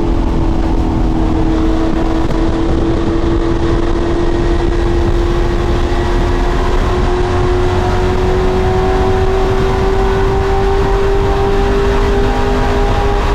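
Race truck engine running hard at speed, one sustained note whose pitch climbs slowly and steadily.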